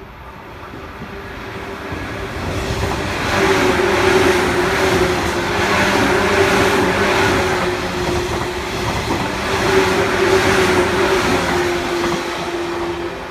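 Electric train passing at speed, its noise building over the first few seconds and then staying loud, with a steady hum and wheels clattering over the rails.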